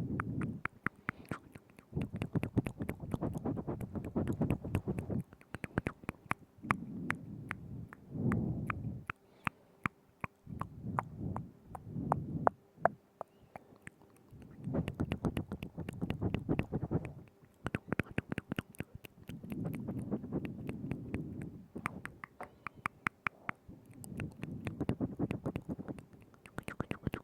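Close-miked ASMR mouth sounds: many wet clicks and smacks of lips and tongue right at the microphone, coming in bursts of one to three seconds with a low rumble under each burst and short quieter gaps between.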